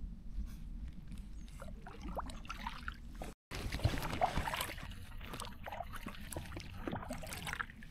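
Small boat being paddled on a river: paddle strokes splash, and water trickles and drips in an uneven rhythm over a low rumble. There is a brief cut about a third of the way in, after which the splashing is louder.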